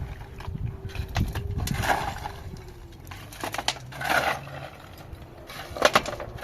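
Scraping strokes about every two seconds, with sharp knocks between them and a faint steady hum underneath.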